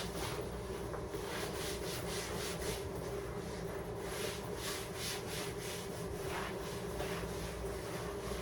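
Repeated rubbing strokes, about two a second, over a steady low hum.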